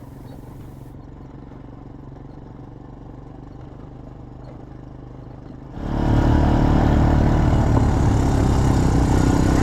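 ATV engine idling with a low steady hum, then about six seconds in a sudden switch to a much louder ATV engine running close up.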